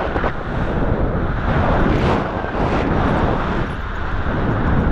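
Strong wind buffeting the action-camera microphone in loud, uneven gusts.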